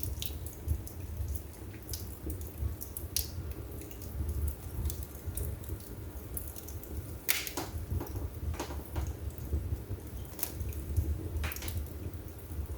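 Wood fire burning in a fireplace: a low steady rumble of the flames with scattered crackles and sharp pops from the burning wood, a few louder pops in the second half.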